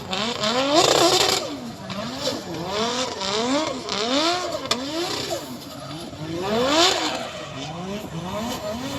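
Several vehicle engines revving up and down over and over, their pitches rising and falling in overlapping sweeps, with two louder surges about a second in and near seven seconds in.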